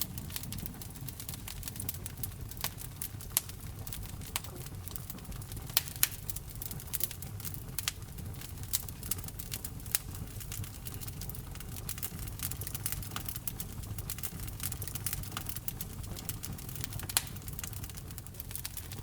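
Wood fire burning in a fireplace: irregular sharp crackles and pops over a steady low rumble of the flames, with a few louder pops about six seconds in and again near the end.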